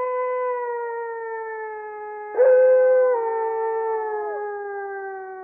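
A canine howling: two long howls, each holding a steady pitch and slowly sliding lower. The second begins about two and a half seconds in.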